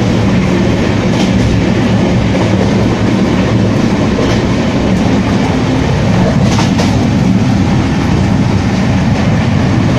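Steady rumble of an Indian Railways Rajdhani Express passenger coach in motion, heard from inside the coach, with a few faint clicks about two-thirds of the way through.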